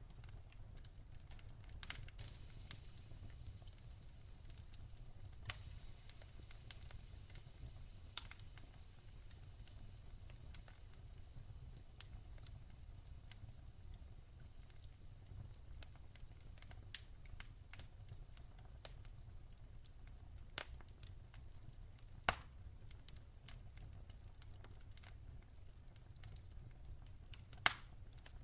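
Campfire burning with irregular sharp crackles and pops over a low steady rumble and faint hiss; the loudest pops come about 22 seconds in and just before the end.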